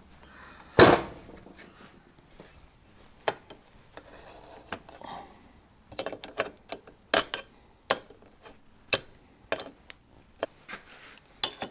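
Metal workshop handling as a trailer jockey wheel is set up and worked in a bench vise: one loud clank about a second in, then scattered lighter knocks and clicks of tools and metal parts.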